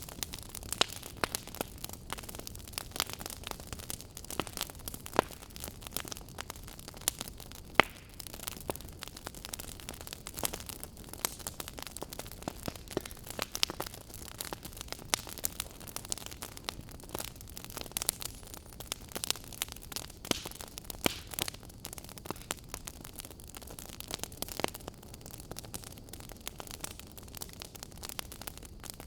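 Wood fire crackling in a fireplace: many irregular sharp pops and snaps over a soft steady background of burning noise, with one louder snap about eight seconds in.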